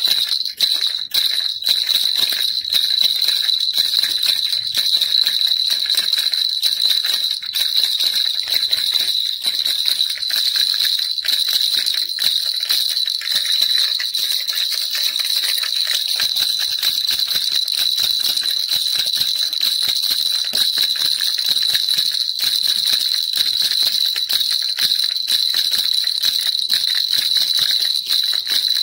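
Baby rattle shaken without a break, giving a dense, even jingling rattle with a steady high ring.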